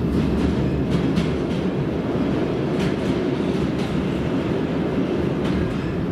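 Train running on rails: a steady low rumble with a few faint, irregular clicks from the wheels.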